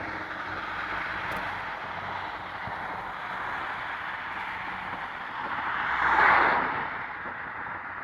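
Steady road-vehicle noise, with one vehicle passing about six seconds in, getting louder and then fading.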